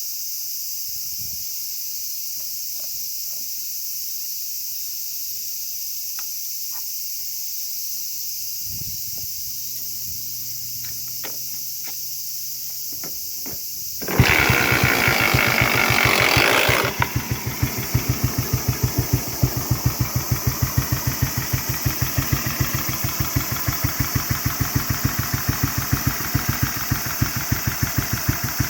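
Kawasaki 250 Meguro SG single-cylinder four-stroke motorcycle engine being kick-started. Faint clicks and knocks come first; about halfway through the engine catches with a brief burst of revs, then settles into an even, pulsing idle.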